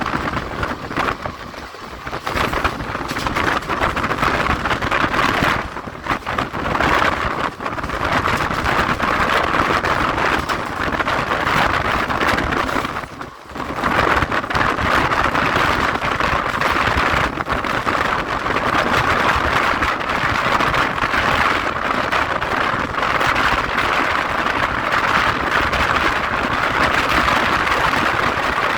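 Express passenger train running through a station at speed without stopping: a steady, loud rush and rattle of wheels and coaches on the rails, dipping briefly about halfway through.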